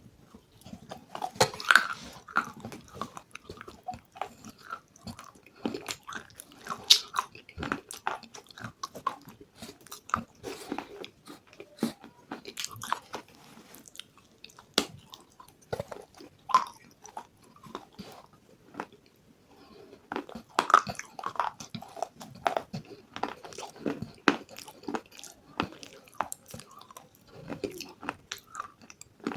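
Close-up mouth sounds of a person biting and chewing crunchy food: a stream of irregular crisp crunches and clicks, with a few short pauses about halfway through.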